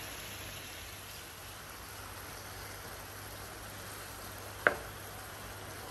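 Salt mackerel and chopped vegetables frying in oil in a nonstick pan, a steady, even sizzle. Near the end comes one sharp knock as the wooden spoon strikes the pan.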